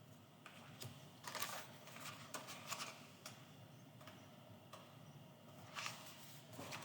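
Faint, scattered rustles and light taps of cardstock and paper being handled, a dozen or so short sounds at uneven intervals.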